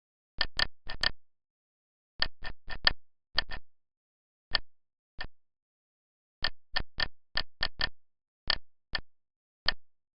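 Short identical keypress clicks, about twenty in uneven groups and runs, with dead silence between them, as when program keys are pressed in turn on a CNC simulator's control panel.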